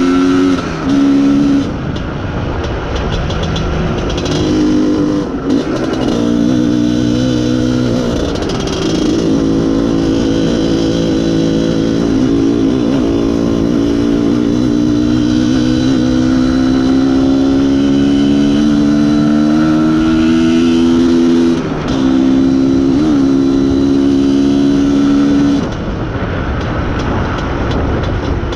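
IZh Planeta Sport motorcycle's single-cylinder two-stroke engine running under load while riding. Its pitch climbs slowly and drops sharply a few times, as at gear changes or throttle lifts.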